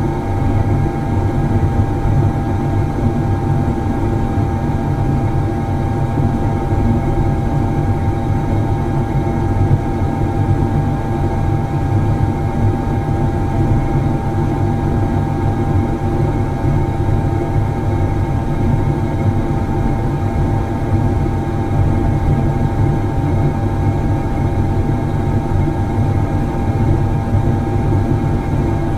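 Factory machinery running steadily: a dense, unchanging low rumble with a constant hum tone above it.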